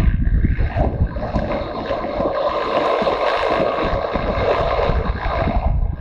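Motorcycle engine running steadily while riding, with wind buffeting the microphone; the sound drops briefly near the end.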